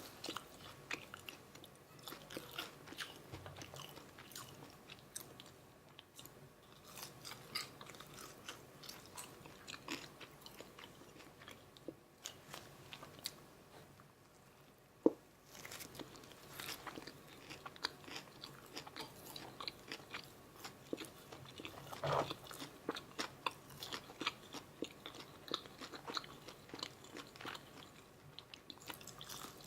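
Close-miked chewing and biting of McDonald's Filet-O-Fish meal food, with wet mouth sounds and crisp crunches. One sharp click, the loudest sound, comes about halfway through.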